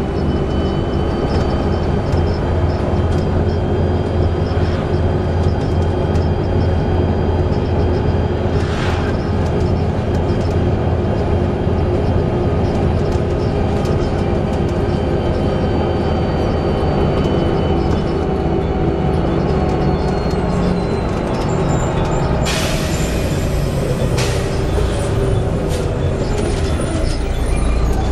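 Volvo B7TL bus under way, its straight-six diesel and Allison automatic drivetrain running steadily with a constant high-pitched whistle over the engine drone, a whistle the uploader tags with a bad differential. A short burst of hiss about three-quarters of the way through.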